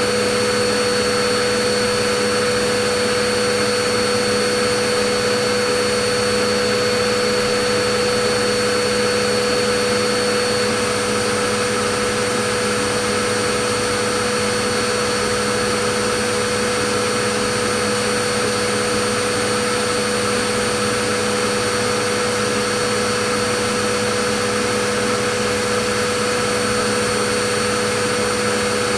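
Vacuum cleaner motor running steadily: an even whooshing hiss of rushing air with a constant whine.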